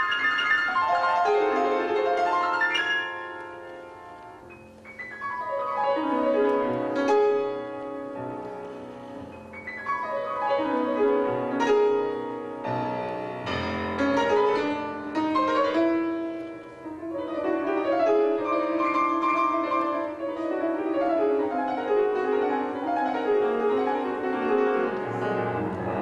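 Piano playing classical-style music, with rapid runs of notes sweeping downward several times, about a third of the way in and again around the middle.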